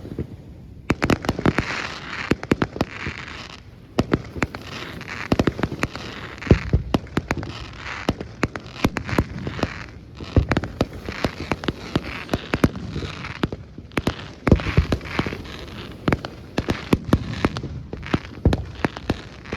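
Fireworks bursting overhead in a rapid, irregular barrage of sharp bangs and crackling, starting about a second in.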